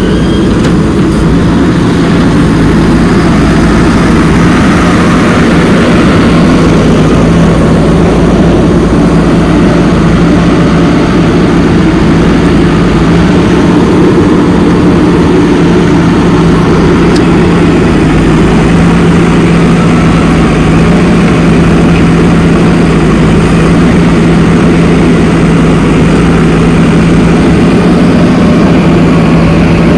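JCB 3DX backhoe loader's diesel engine running steadily, a constant low hum with no changes in pitch.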